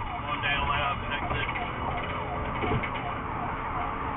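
Police car siren in a fast yelp, a falling tone repeating about three times a second, over steady engine and road rumble.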